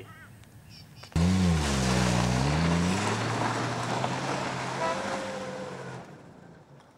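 An old sedan's engine revving hard as the car slides in circles on loose dirt, with the hiss of spinning tyres. It cuts in abruptly about a second in, the engine note dipping and climbing again, then fades as the car drives away.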